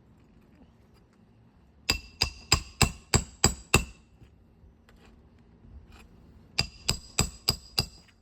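Roofing hammer striking a roof snake to drive roofing nails in under a lifted asphalt shingle: two runs of quick, evenly spaced blows, seven then five, each with a metallic ring.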